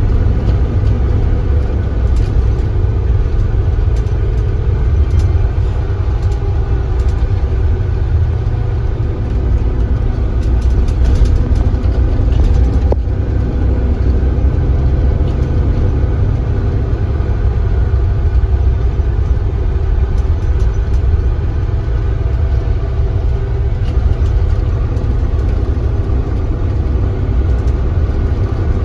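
Kia Granbird Sunshine coach's engine running at a steady low speed: an even, deep rumble that neither rises nor falls.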